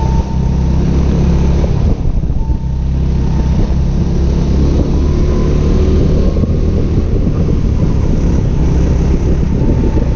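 Go-kart engine running under throttle, heard from on board, with wind noise on the microphone. The engine note dips briefly about two seconds in, then picks up again.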